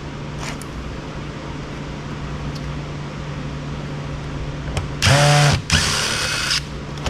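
Cordless electric screwdriver whirring in two short bursts about five seconds in, its pitch swinging up and down as it spins screws out of a plastic housing, over a steady low hum.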